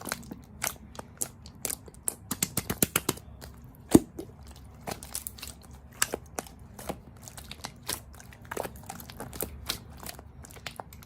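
A person biting and chewing crisp food: irregular sharp crunches, several a second, with a dense run of them and one loudest crack about four seconds in.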